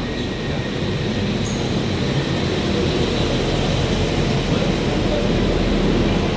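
Two coupled Transport for Wales Class 197 diesel multiple units running into the platform. Underfloor diesel engines drone over wheel-on-rail noise, growing louder over the first second and then holding steady.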